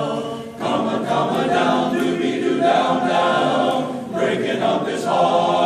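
A group of voices singing a cappella in close harmony, with short breaks between phrases about half a second and four seconds in.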